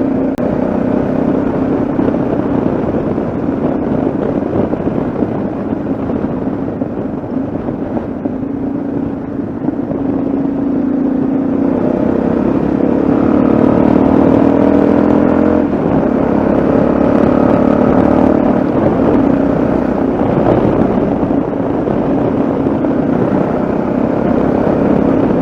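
Yamaha XT660Z Ténéré's single-cylinder engine running on the move. It rises in pitch and gets louder from about halfway through as the bike pulls harder, with a brief drop in pitch in between, like a gear change.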